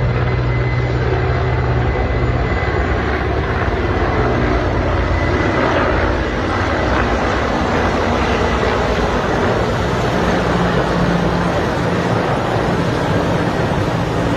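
Mil Mi-18 helicopter running loudly nearby: a dense, steady rotor and turbine noise, with a thin high whine that fades out about halfway through.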